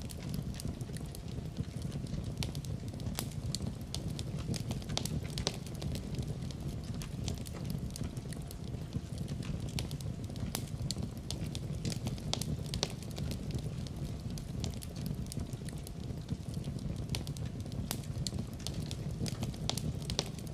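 Wood fire crackling in a fireplace, with frequent irregular sharp pops and snaps over a steady low rumble of the flames.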